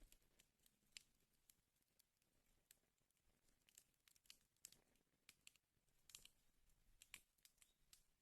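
Wood fire crackling faintly: irregular small pops and snaps, several a second, over a soft hiss.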